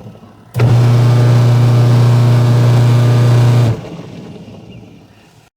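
Washing machine's electric motor switched on about half a second in, humming steadily at one low pitch for about three seconds, then switched off and winding down.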